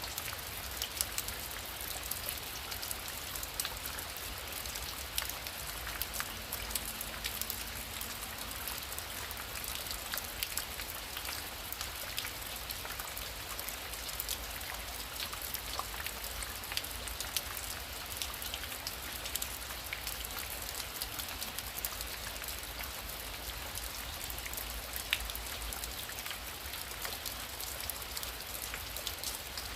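Heavy rain falling steadily: an even hiss dotted throughout with many sharp individual drop hits.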